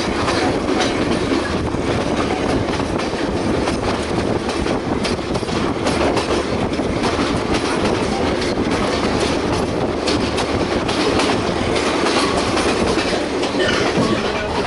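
Passenger train running on the rails: a steady loud rumble with repeated clicks and clatter of the wheels over the track.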